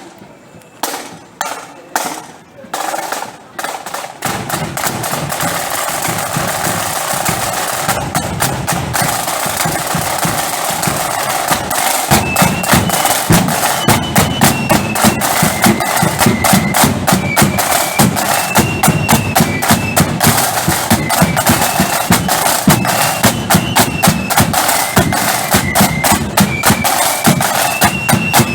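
Marching flute band: a few sharp snare-drum strikes lead into a continuous drum roll, and about twelve seconds in the bass drum starts a steady beat while the flutes play a high melody over the drums.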